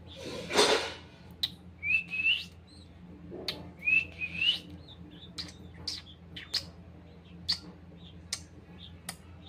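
Pet lovebird calling: a loud rasping sound just after the start, then two short rising chirps about two and four seconds in, followed by a string of short, sharp clicks.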